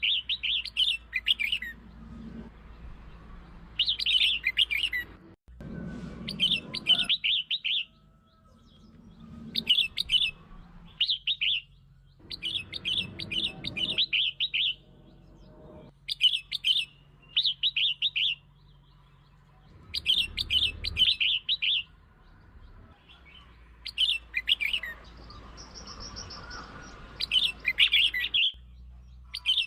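Red-whiskered bulbul singing in short, bright, warbling phrases about a second long, repeated every two to three seconds. This is the song played as a lure to rouse other bulbuls.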